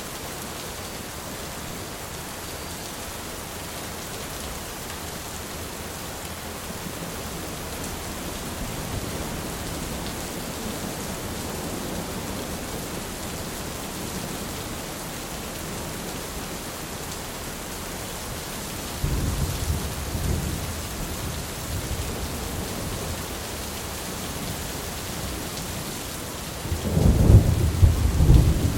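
Steady heavy rain with thunder: a low rumble breaks in suddenly about two-thirds of the way through, and a louder, closer clap of thunder rumbles near the end.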